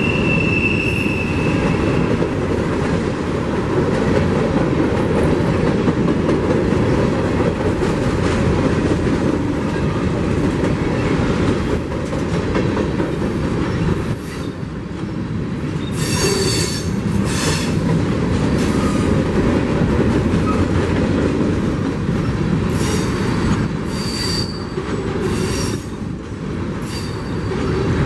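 A train rolling past on the rails with a steady rumble of wheels, broken by short high-pitched wheel squeals at the start, a little past halfway, and several times near the end.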